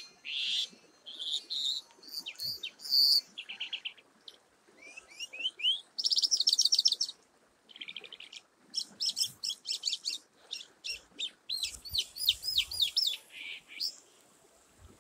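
A songbird singing a varied song of high chirps, rapid trills and sweeping whistled notes, in short phrases separated by brief pauses.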